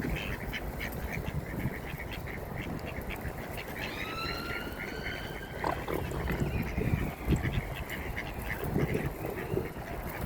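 A flock of ducks quacking in quick, repeated calls, with one longer, higher call about four seconds in.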